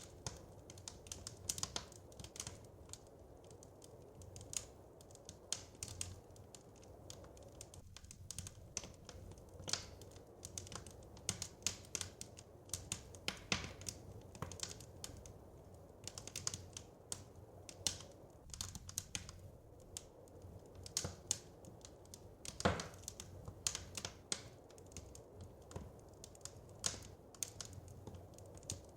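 Wood fire crackling in a fireplace: irregular sharp pops and snaps, several a second, over a soft steady low rumble.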